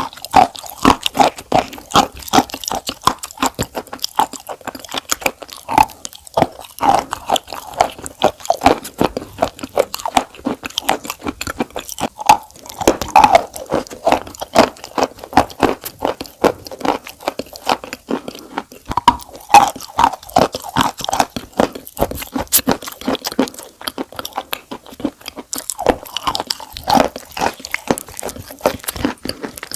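Close-miked crunching and chewing: dense, irregular crackly crunches without pause.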